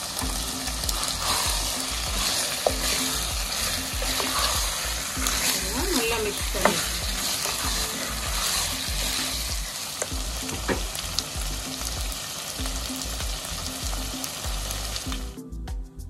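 Chicken pieces frying and sizzling in hot oil with onion and ginger-garlic paste as they are stirred, with a few sharp clicks along the way. The sizzle cuts off suddenly near the end.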